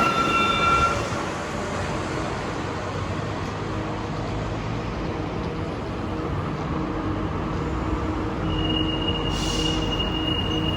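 Santiago Metro Line 5 rubber-metro train running through the station with a steady rumble. A high whine fades out about a second in, and a single high steady tone starts near the end.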